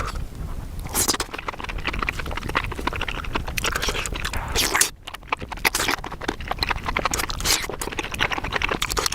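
A person chewing a mouthful of sauce-dipped spicy mushrooms close to the microphone, a dense run of small clicks and crunches, with a brief dip about five seconds in.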